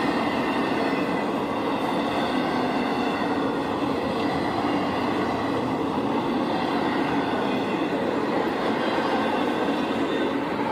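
A train's cars rolling past steadily, a continuous, even noise of wheels on rail.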